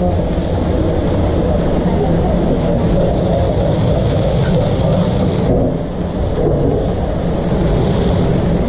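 Steady food-truck kitchen noise: a constant low hum like an extractor fan or motor, under an even hiss of food frying.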